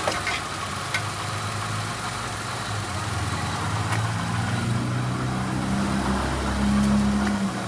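1995 Toyota Camry engine idling in drive with the brakes held, a steady low hum that grows louder in the second half and eases off just before the end. A couple of light clicks come in the first second.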